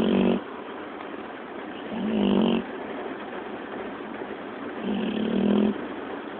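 A sleeping puppy snoring, three short snores about three seconds apart, over the steady noise of a moving car.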